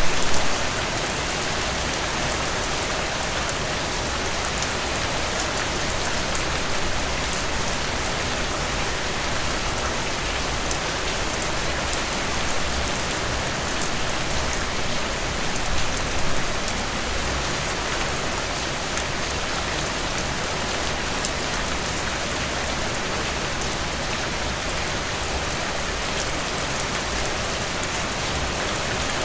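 Steady rainfall, a dense even hiss of many drops on surfaces, with a couple of brief heavier spatters, once at the start and once about halfway through.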